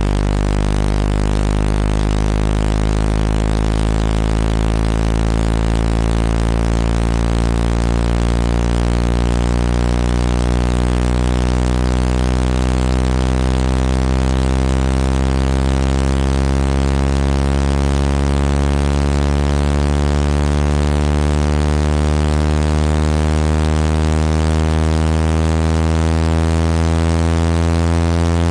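Speaker-cleaning tone, meant to be played through a phone speaker to shake out dust and water: a loud, low buzzing tone with many overtones, rising slowly and steadily in pitch.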